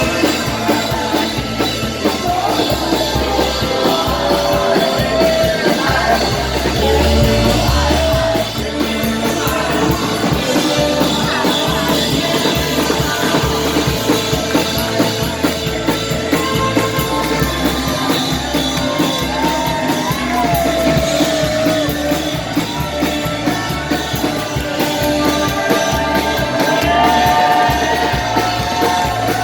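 A live rock band playing loud, with a singer holding long notes that bend in pitch over a steady drum beat.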